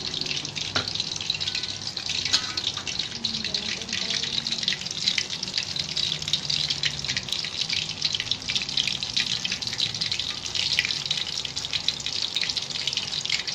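Battered banana fritters deep-frying in hot oil in an aluminium wok: steady sizzling and crackling.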